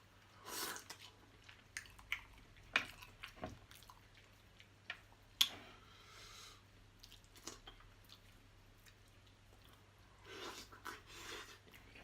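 A person chewing seafood-boil food close to the microphone: wet mouth clicks and smacks scattered throughout, with a few louder bursts of eating noise about half a second in, around five and a half seconds, and near the end.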